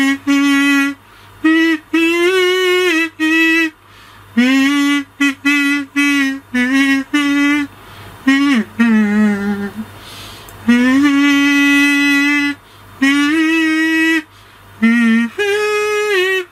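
Kazoo played as a tune: a melody of short buzzy hummed notes, with a falling slide to a low note about halfway through and a long held note just after.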